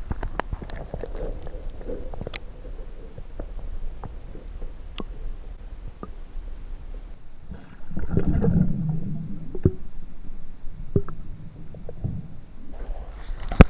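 Water sloshing and dripping around a camera held over river water for an underwater fish release; about seven seconds in the sound turns muffled and gurgling as the microphone goes under, then clears near the end with a sharp knock.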